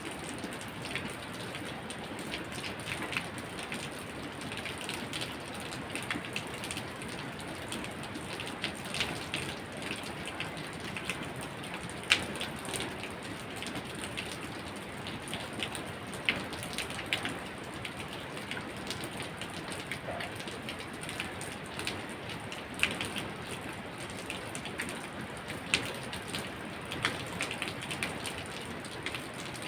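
Steady rain falling, with irregular sharp drips and taps of drops striking a hard surface; one tap about twelve seconds in is the loudest.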